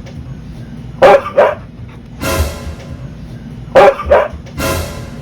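Two huskies 'talking' back and forth: two pairs of short, loud barks, each answered by a longer drawn-out howling vocal, the back-and-forth that huskies use as a grumbling argument.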